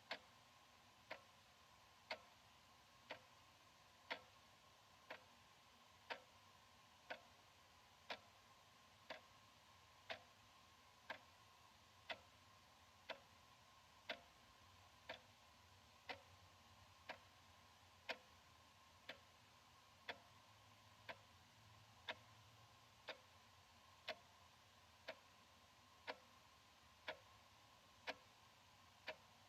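Analog wall clock ticking steadily, one tick a second, the ticks alternating slightly louder and softer.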